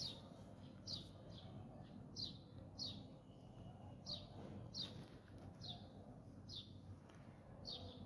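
A small bird chirping over and over, short high falling chirps about once a second, over a faint low background rumble.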